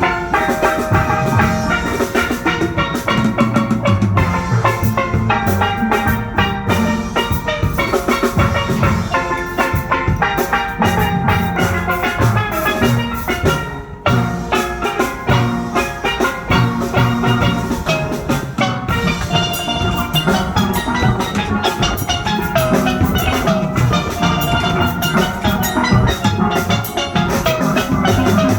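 Steel band playing an upbeat tune, the ringing notes of steel pans over a drum kit beat, with a brief break about halfway through.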